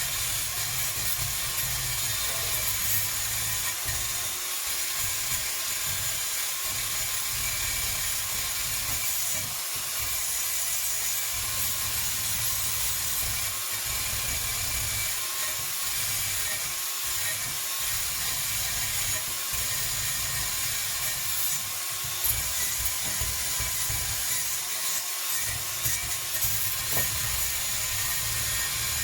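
A power tool running steadily against a workpiece, with a continuous abrasive rubbing noise.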